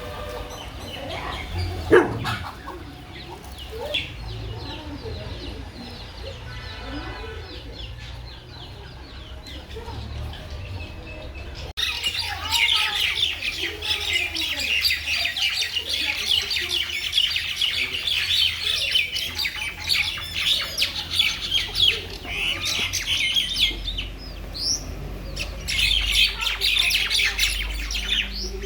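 Mynas calling: a few scattered calls and a single sharp knock at first, then from about twelve seconds in a dense, continuous chatter of rapid, harsh chirps from several birds.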